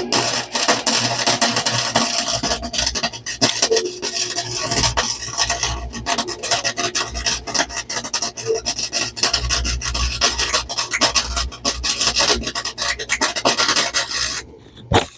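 Flux-core wire welder arc crackling steadily as a weld is run on the floor pan sheet metal, cutting off suddenly near the end.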